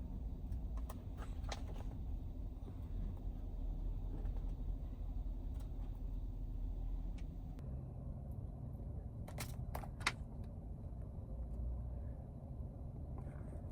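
Steady low rumble of a vehicle, with a few scattered light clicks.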